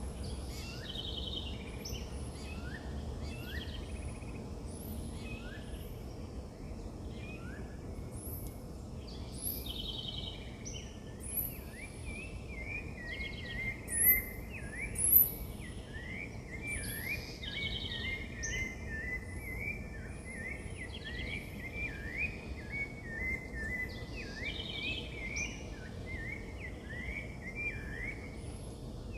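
Several birds calling over steady low background noise: sharp high chirps, short buzzy notes, and from about twelve seconds in a fast run of short rising notes that repeats again and again. Two chirps near the middle stand out louder than the rest.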